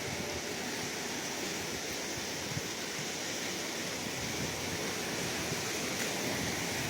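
Sea surf: a steady, unbroken wash of waves with no single breaker standing out.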